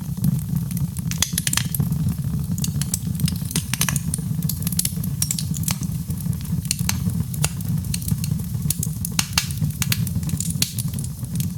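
Wood fire crackling, with many sharp pops and snaps over a steady low rumble of burning flames.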